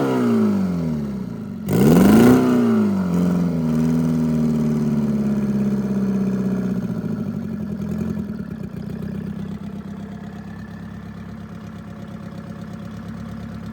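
Detroit Diesel 4-53 two-stroke four-cylinder diesel engine, coming down from a rev, revved sharply once more about two seconds in, then dropping back and settling to a steady idle.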